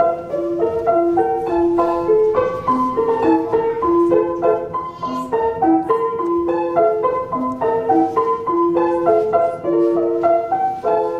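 Piano music playing a quick, bright melody of short, separate notes.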